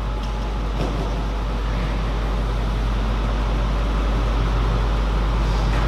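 Steady low hum and hiss of ventilation, with a few faint short knocks near the start and again near the end.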